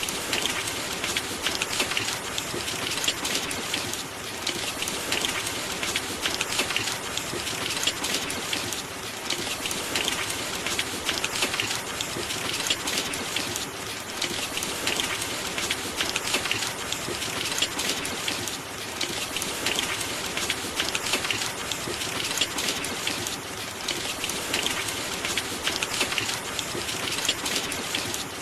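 Steady heavy rain: a dense, even hiss of drops that swells and eases slightly every few seconds.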